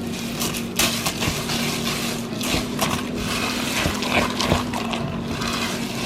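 Raisin bran cereal being stirred into thick, wet muffin batter in a bowl: irregular wet squishing and scraping strokes.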